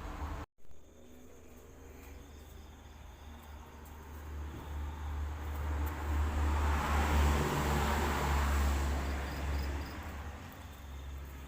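A vehicle passing by, its noise swelling over a few seconds and fading away, with crickets or other insects chirping faintly.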